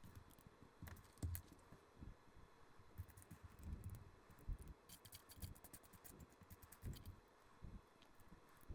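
Faint, quick clicking and rattling of small plastic LEGO bricks being handled and snapped together, with soft low knocks as pieces are set down on the table; a dense run of ticks comes about halfway through.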